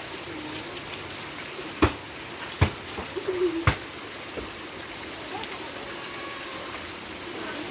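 Steady rain falling, with three sharp smacks about a second apart, a volleyball being struck, around the middle.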